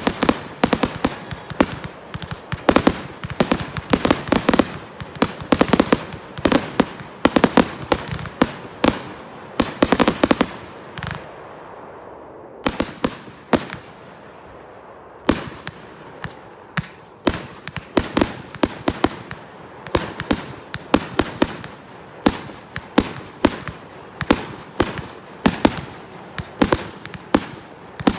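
Fireworks going off in a rapid barrage of sharp bangs, several a second, thinning to a few scattered reports about twelve seconds in before the barrage picks up again.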